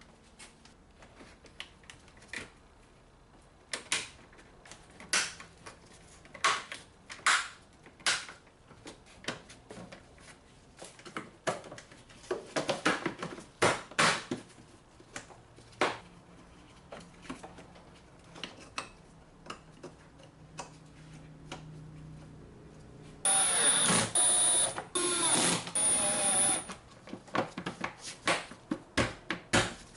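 Scattered clicks and clinks of hand tools and parts being handled, then, about three-quarters of the way in, a small motor runs for about three seconds in two short runs.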